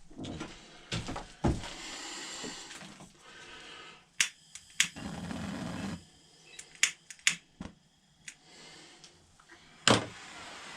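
Hand-working of a wooden axe haft: a few short stretches of rubbing strokes, broken by several sharp clicks and knocks of tool handling, the loudest near the end.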